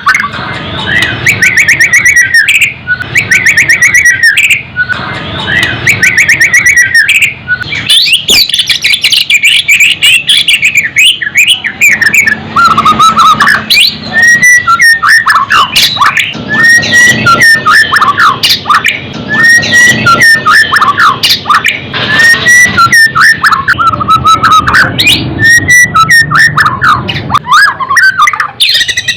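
White-rumped shama (murai batu) singing a long, varied run of loud whistled phrases, many gliding up or down in pitch, mixed with quick chattering notes.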